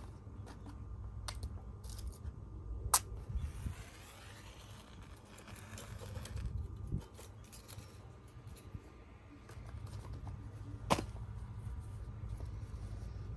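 Handling noises while a campfire is being laid and lit: small scattered clicks and two sharp knocks about eight seconds apart, with a stretch of soft hissing between them, over a low rumble of wind on the microphone.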